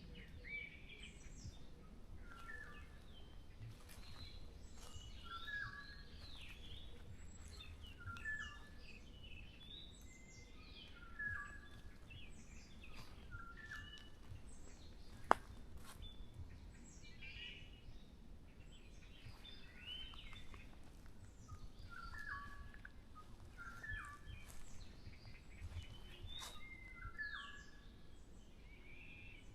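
Several forest birds singing in short repeated phrases, overlapping throughout, over a faint low rumble. One sharp click about halfway through.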